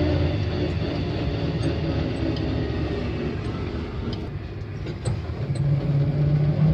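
Engine of an old Chevrolet pickup truck running steadily, its pitch rising about six seconds in as it picks up revs.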